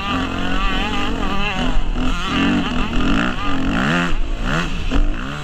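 Yamaha YZ250F four-stroke single-cylinder motocross engine under hard riding, its pitch rising and falling repeatedly as the throttle is worked and the revs climb and drop.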